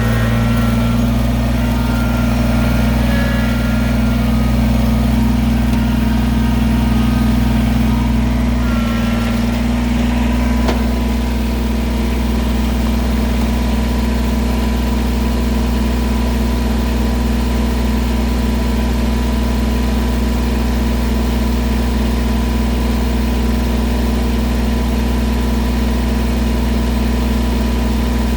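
An engine idling steadily, with a slight change in pitch about nine seconds in.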